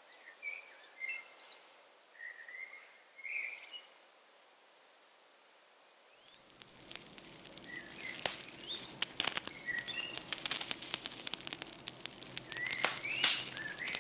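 Small birds chirping, short scattered calls. About six seconds in, a steady crackling hiss full of sharp clicks starts up beneath the chirps and grows louder toward the end.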